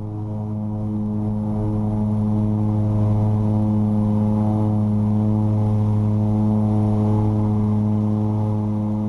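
de Havilland Canada DHC-6 Twin Otter turboprop engines and propellers at takeoff power during lift-off and initial climb, heard in the cockpit: a steady deep propeller hum with a stack of evenly spaced overtones, growing louder over the first few seconds, then holding steady.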